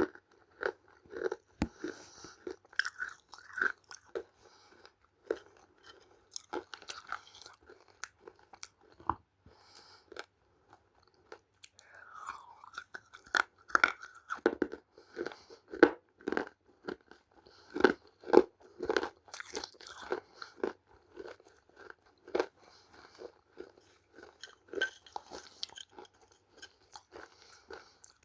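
Biting and chewing dried clay (multani mitti or red mitti) close to the microphone: irregular crisp crunches, coming thickest about halfway through.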